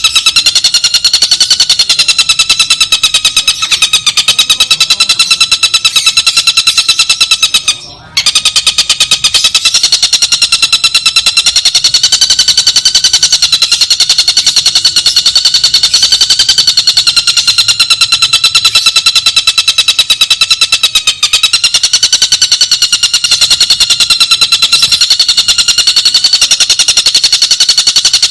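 Tengkek buto bird song from a looped training track: a continuous, very fast rattling trill of rapidly repeated notes, briefly breaking off about eight seconds in.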